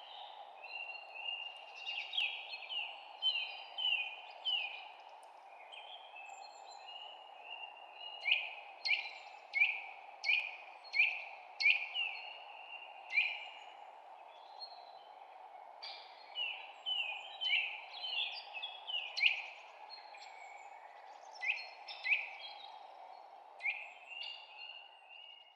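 Songbirds chirping: runs of short, quick, down-slurred chirps that come and go in bursts, over a steady background rush.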